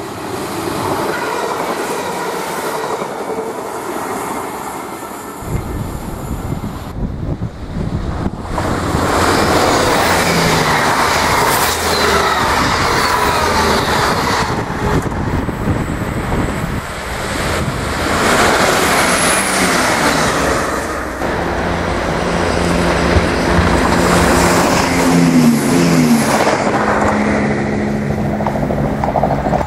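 Diesel multiple-unit passenger trains: one approaching, then after a break another passing close by with a dense rumble of engine and wheels on the rails. Near the end a steady diesel engine drone remains, bending in pitch briefly.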